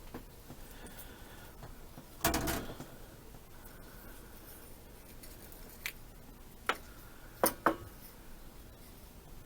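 Carburetor parts being handled at the bench: a short clatter a little over two seconds in, then four sharp clicks and taps, two of them close together near the middle.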